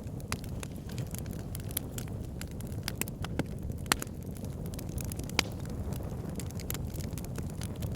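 Wood log fire burning: a steady low rumble with frequent sharp crackles and pops, a few of them louder than the rest.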